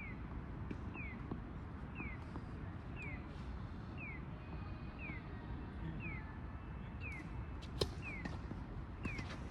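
A bird's short falling chirp, repeated about every three-quarters of a second, with scattered sharp tennis-ball strikes, one of them loud near the end, over a steady low outdoor rumble.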